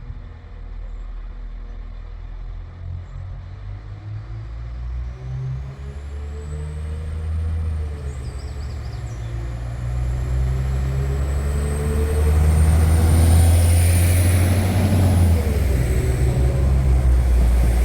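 Northern class 195 diesel multiple unit drawing near, its low diesel engine note and a high whine growing louder over about a dozen seconds and then holding steady.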